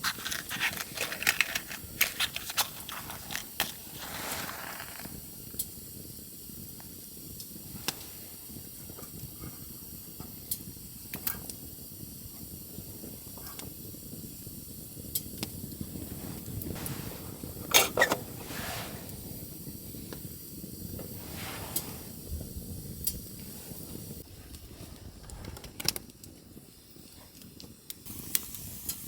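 Wood campfire burning, with irregular sharp crackles and pops over a steady low rush, the loudest pops about eighteen seconds in.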